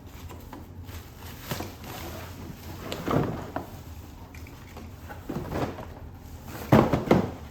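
Scattered knocks, bumps and rubbing of packaging being handled while unboxing a coffee maker. The loudest is a pair of knocks near the end.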